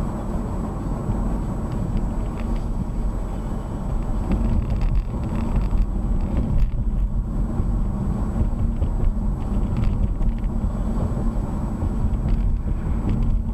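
Steady low rumble of a car driving, engine and road noise with no sudden impacts, over a faint steady high-pitched whine.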